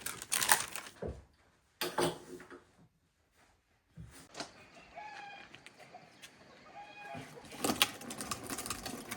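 A few clinks and knocks of dishes, then a brief silence, then chickens calling with short clucking notes from about four seconds in.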